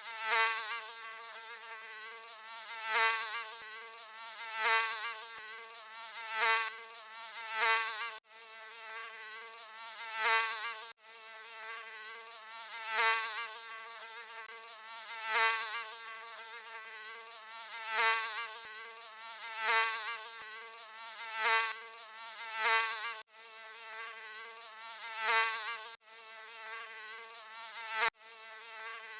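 Mosquito buzzing: a thin, high whine with a wavering pitch that swells loud and fades again every second or two, as if flying close past the ear. It has a few abrupt breaks.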